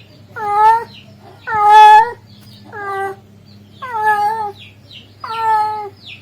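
A male cat's mating call: five drawn-out meows about a second apart. The third call, about two seconds in, is the longest and loudest.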